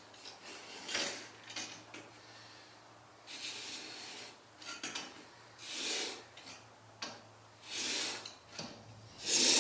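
Plane blade held in a honing guide, rubbed back and forth on a 1000-grit Trend diamond sharpening stone: a rasping, scraping stroke every two seconds or so.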